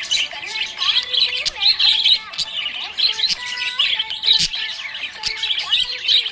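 Small pet parrots chirping and twittering continuously, a dense overlapping chatter of many high chirps.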